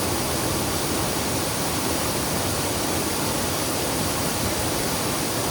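Waterfall rushing with a steady, even roar of falling water, swollen after a week of rain.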